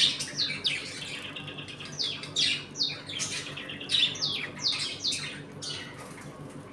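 A colony of budgerigars chirping, with many short falling chirps following one another and overlapping, over a steady low hum.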